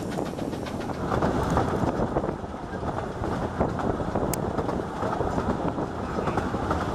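A 15-inch gauge miniature railway train running along the track, heard from on board: a steady rumble and clatter of carriage wheels on the rails.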